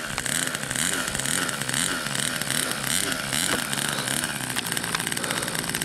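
Small nitro glow engine of an RC model plane running on the ground at a low throttle setting, its pitch wavering up and down.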